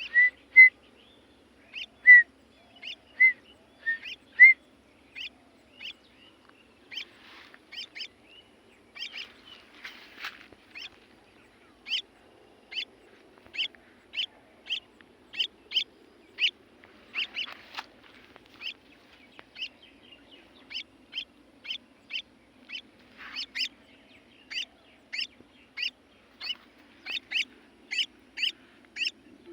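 A pet bird chirping over and over in short calls, about one to two a second: louder, lower chirps in the first few seconds, then a steady string of sharper, higher chirps. Faint rustling comes in twice along the way.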